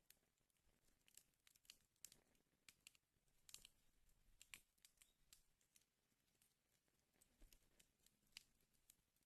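Wood fire in a fireplace crackling faintly, with irregular sharp pops several times a second and a few louder snaps near the middle.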